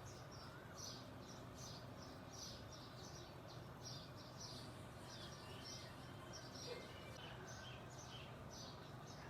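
Songbirds chirping faintly: a steady run of short, high, down-slurred chirps, about three a second, over a low steady hum.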